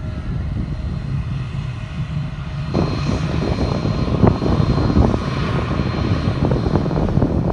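Fixed-wing airplane's engine running loud, a deep rumble with a steady high whine over it; the sound changes and fills out about two and a half seconds in.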